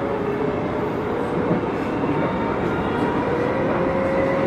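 Hokuso 9100-series electric train running on the rails, heard from inside the car, with a steady rolling rumble. A faint electric motor whine climbs in pitch in the second half as the train picks up speed.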